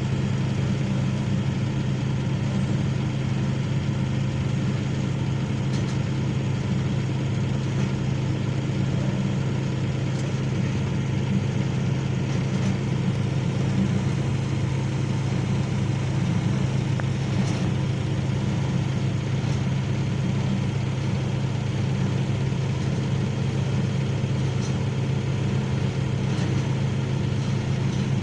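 Excavator's diesel engine running steadily at an even, low pitch, with a few faint ticks.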